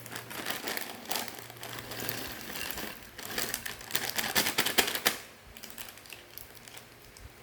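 Plastic snack packet crinkling and crackling as it is torn open and handled, dense rapid crackles for about five seconds, then fainter rustling.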